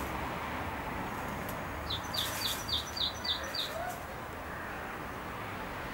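A bird calling a quick run of about seven short, high chirps, roughly four a second, over steady low background noise.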